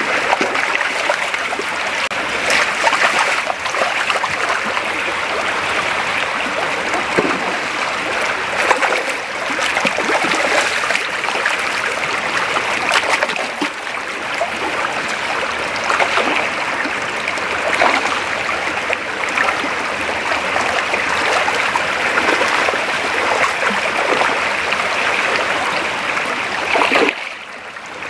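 Creek water running steadily, with scattered splashes through it. The level dips briefly near the end.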